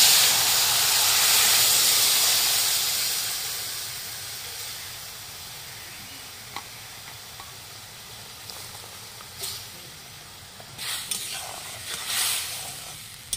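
Ground mustard paste poured into hot mustard oil in a kadai: a sudden loud sizzle that dies down over several seconds to a low, steady frying hiss. Near the end a spatula stirs the paste, bringing a few short spurts of louder sizzling.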